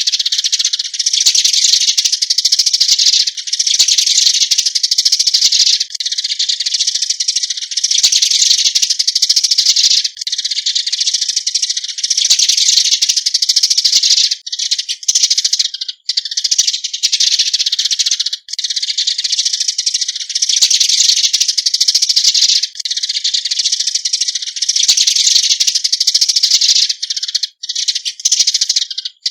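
Eurasian tree sparrows giving their flock call: dense, continuous high chirping chatter, broken by short pauses every couple of seconds.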